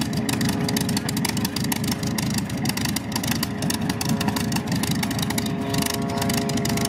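P-51D Mustang's Packard V-1650 Merlin V-12 engine running steadily after start-up, with a rapid, even pulsing of the exhaust and a faint steady whine underneath.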